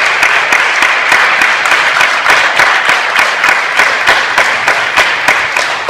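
An audience applauding: many hands clapping in a dense, steady patter that eases off near the end.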